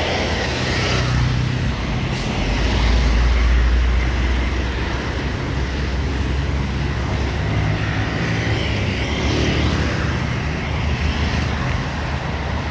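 Road traffic: motor vehicle engines running and tyres on the road, with one engine coming through louder and lower for a second or two about three seconds in.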